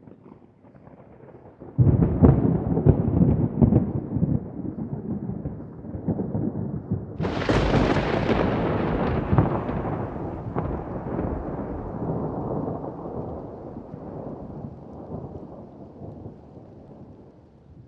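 Thunder: a faint low rumble breaks into a sudden loud clap about two seconds in that keeps rolling. A second, sharper crack comes about seven seconds in and rumbles away slowly.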